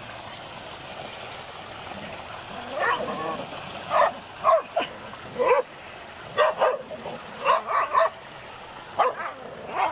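Dogs barking: a string of short, sharp barks that begins about three seconds in and comes in quick clusters, over a steady background hiss.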